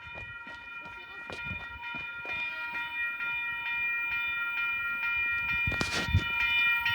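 An approaching Oscar (H-set) double-deck electric train. It makes a steady high-pitched ringing of several held tones that grows louder, with faint regular clicking, and there is a brief loud noise about six seconds in.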